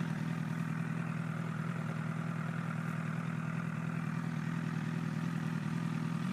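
Honda CBR1000RR's inline-four engine running steadily with an even, unchanging pitch.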